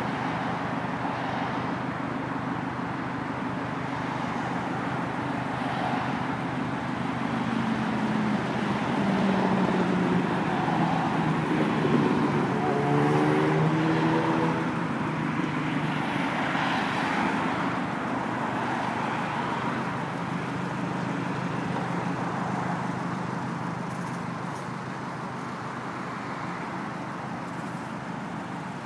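Subaru Impreza WRX STI's turbocharged flat-four engine idling steadily. In the middle a louder engine note swells and slides down in pitch, then fades back.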